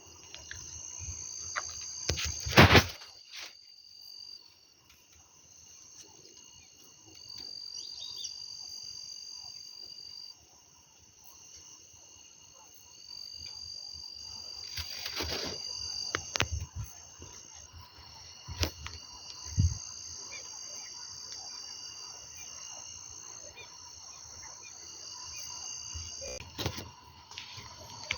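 Steady high-pitched chorus of calling insects, with several sharp knocks or clicks over it, the loudest about two and a half seconds in.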